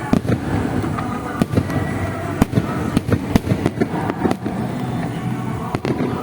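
Aerial fireworks going off at a display: a string of sharp cracks and bangs at irregular intervals.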